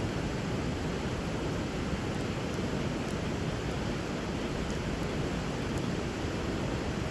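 Steady rushing of a flowing river, with a few faint crackles from a wood fire burning over the water.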